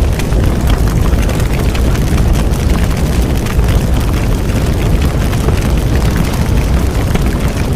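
Large bonfire burning: a steady low roar of flames with continual crackling and popping of the burning wood.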